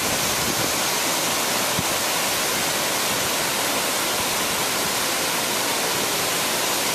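A waterfall running: a steady, unbroken rush of falling water.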